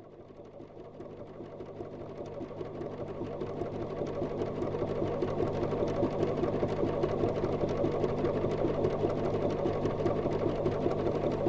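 Electric sewing machine running steadily with a fast, even stitching rhythm, growing louder over the first five seconds or so.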